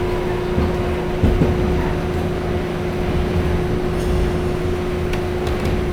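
Inside an R68 subway car running along the track: a steady low rumble of wheels on rail under a constant hum, with a single knock about a second in.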